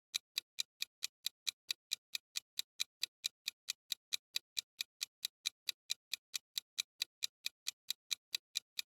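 Clock-ticking sound effect: a steady run of sharp, even ticks, about four to five a second, typical of a quiz countdown timer.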